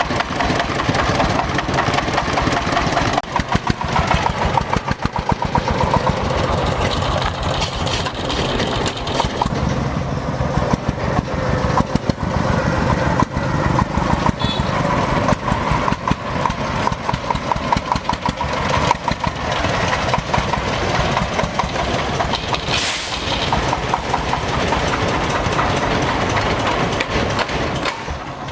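Old tractor engine running steadily, with a fast, even firing beat.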